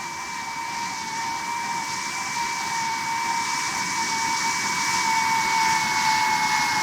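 Jet airliner engines whining with a hiss, two steady high tones sinking slightly in pitch, growing steadily louder as the aircraft approaches.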